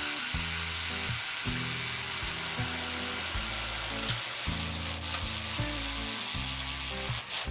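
Background music with low sustained chords changing every half second or so, over the steady noise of a Makita 18V cordless reciprocating saw cutting bamboo.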